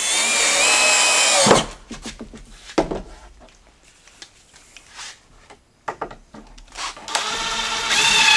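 Power screw gun driving screws into a tapered oak board on plywood: one run of the motor whine lasting about a second and a half, then a few knocks and clicks, and a second run starting near the end.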